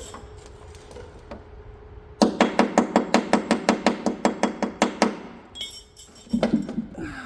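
Rapid hammer strikes on a steel hedgecutter hood, about seven a second for some three seconds, each with a short metallic ring: chipping slag off a fresh stick weld.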